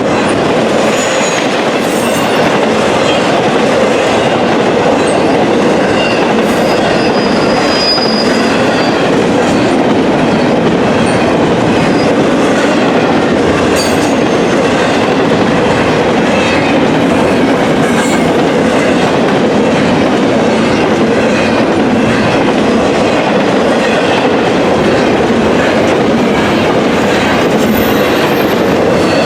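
Freight train cars rolling past, a loud, steady rumble and rattle of steel wheels on the rails, with a brief high wheel squeal about eight seconds in.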